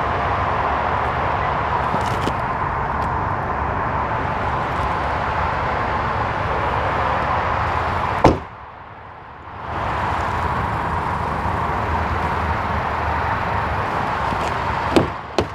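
A car door or lid shutting with a sharp thud about eight seconds in, after which the steady background rush goes briefly much quieter; two sharp latch clicks near the end.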